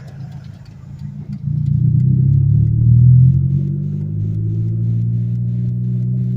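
Turbocharged Mazda Protege's four-cylinder engine and exhaust running as the car drives at light throttle, off boost. The engine note swells about a second and a half in, eases a little past the middle, then holds steady.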